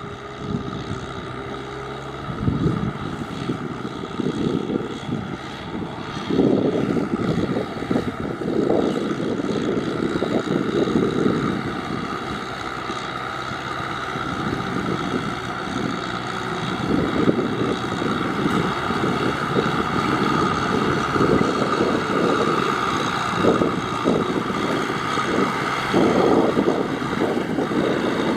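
A tractor's engine running steadily as it ploughs through mud and standing water, with uneven surges in the lower range.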